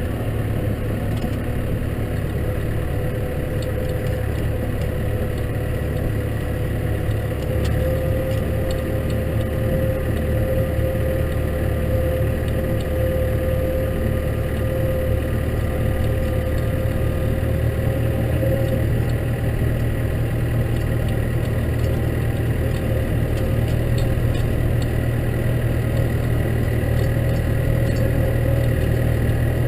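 Case tractor's diesel engine running steadily under load, with a steady whine over the low engine drone.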